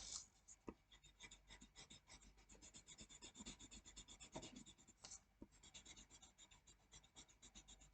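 Pencil colouring in on paper: faint, quick back-and-forth shading strokes, pausing briefly about five seconds in.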